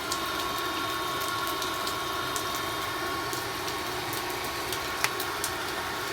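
A small blower motor runs steadily with a thin, even whine, blowing air onto a wood cooking fire to bring the flame up. Scattered sharp clicks sound over it, with the loudest about five seconds in.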